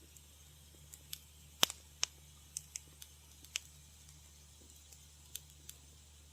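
Wood fire in a fireplace crackling, with irregular sharp pops and snaps. The loudest snap comes about a second and a half in, over a low steady hum.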